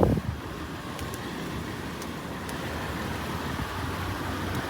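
Toyota 4Runner's 4.0-litre V6 idling, a steady low rumble, with a brief thump of handling right at the start.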